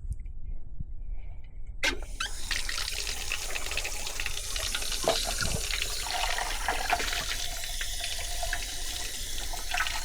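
Water pouring in a steady stream, starting suddenly about two seconds in.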